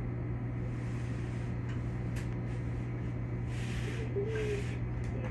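Stationary Keikyu electric train standing with its equipment running: a steady low electrical hum, with two short hisses a little past the middle.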